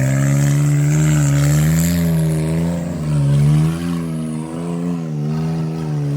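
Side-by-side engine working under throttle on a rock crawl, its pitch rising and falling repeatedly as the throttle is fed in and eased off.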